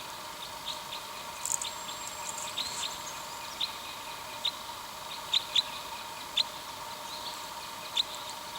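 Small birds calling: about a dozen short, high chirps scattered irregularly, several sharper ones in the second half, over a faint steady hum.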